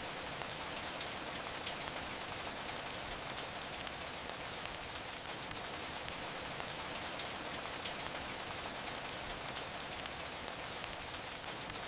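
Steady rain hiss with scattered sharp crackles and pops from a wood fire, one louder pop about halfway through.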